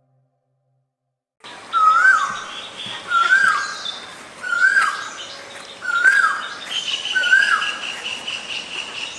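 Birdsong: a bird repeats a short rising call five times, each a little over a second apart. From about seven seconds in, a steady high trill runs under it. The sound starts abruptly after about a second and a half of silence.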